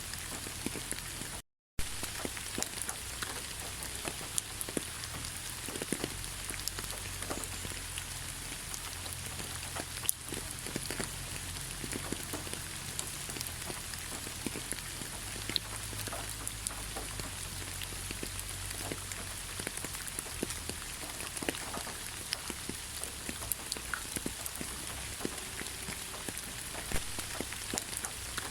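Steady rain falling in a pine forest, a constant hiss with many separate drops ticking close by. The sound cuts out completely for a split second about one and a half seconds in.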